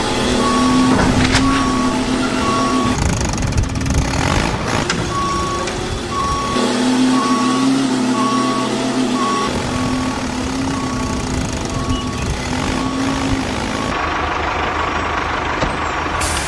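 A vehicle reversing alarm beeping at an even pace, about one beep every 0.7 seconds, over a steady engine hum. The beeping stops about three-quarters of the way through while the hum goes on.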